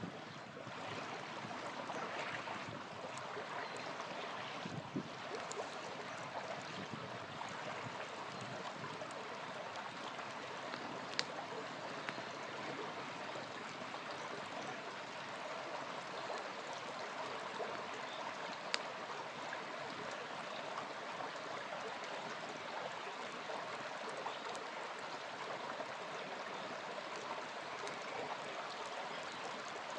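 Small river flowing with a steady rush, and a campfire crackling, with two sharp pops standing out about 11 and 19 seconds in.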